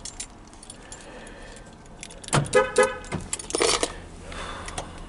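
Keys jangling and clicks of a key fob and start button. A few short electronic beeps come about two and a half seconds in, then the Chevrolet crate engine with Edelbrock fuel injection starts and settles into a steady idle.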